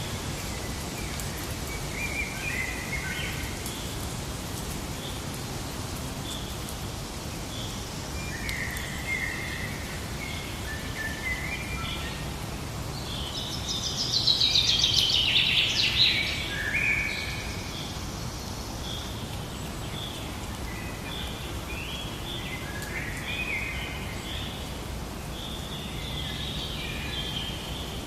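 Forest ambience: several birds calling and chirping over a steady background hiss, with one louder burst of rapid chirping about halfway through.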